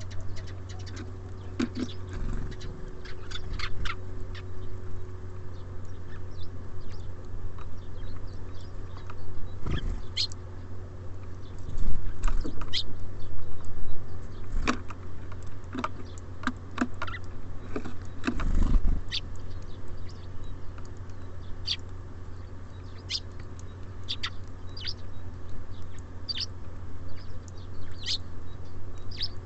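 Small songbirds at a feeder: scattered short chirps and sharp pecking and landing taps, over a steady low hum. A louder low rumble comes in around the middle.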